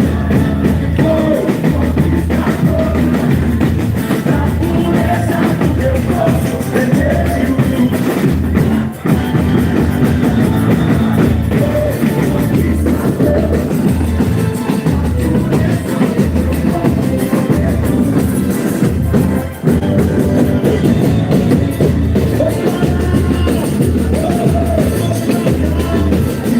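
Live boi-bumbá toada music: a loud, driving drum section with a sung melody over it, with two brief drops in the drumming partway through.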